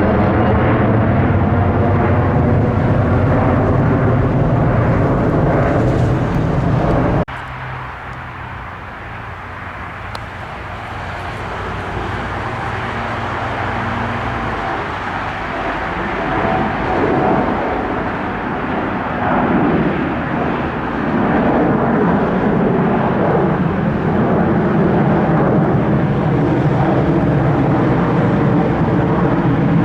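Aircraft engines running loud and steady, cut off abruptly about seven seconds in. A quieter engine noise follows and swells gradually, loud again by the second half.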